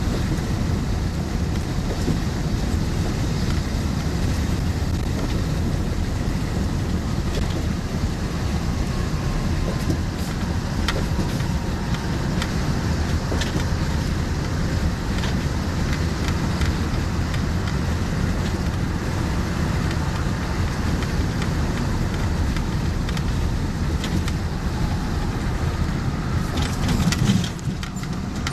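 Steady engine and road noise of a tow truck driving, heard from inside the cab with the driver's window stuck open, so the rumble and air noise come straight in.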